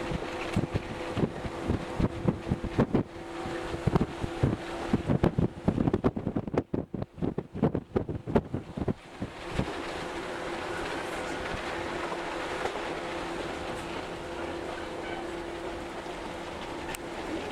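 Local electric train heard from inside the car, with a steady hum under it. For the first nine seconds or so the wheels click and clack over rail joints and points in quick irregular strokes, then the ride settles into a smooth, even running noise.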